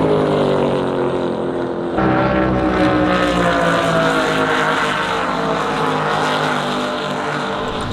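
Offshore racing powerboat engines running at speed, their pitch sinking slowly as the boats go past. The sound cuts abruptly to another engine about two seconds in, and its pitch also sinks slowly.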